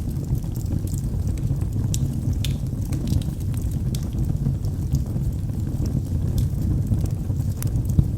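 Log fire burning with a steady low rumble, sharp pops and crackles scattered through it.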